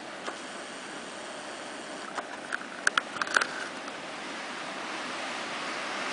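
Blizzard wind blowing steadily, a rushing noise that grows a little toward the end. A handful of sharp ticks come about two to three and a half seconds in.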